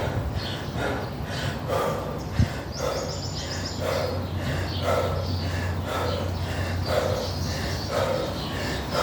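A dog barking repeatedly, about once a second, with a single thud about two seconds in.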